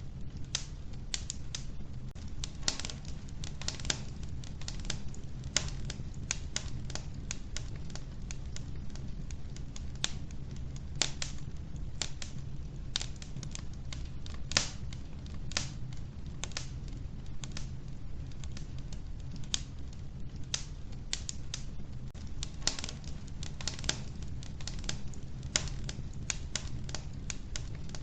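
Wood fire burning in an old wood-burning stove: irregular sharp crackles and pops, several close together at times, over a steady low rumble.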